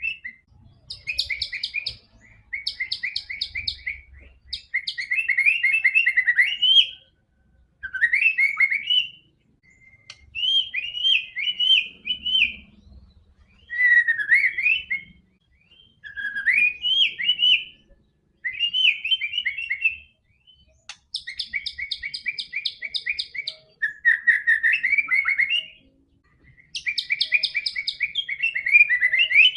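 White-rumped shama (murai batu) singing energetically: a steady run of short phrases of fast rattling notes and gliding whistles, one phrase every two to three seconds with brief pauses between. It is a lure song meant to prompt quiet shamas to start singing.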